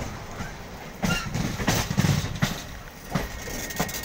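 Passenger train in motion, heard from the coach doorway: wheels clacking on the rails in an uneven run of knocks over a steady rumble. It is loudest between about one and two and a half seconds in.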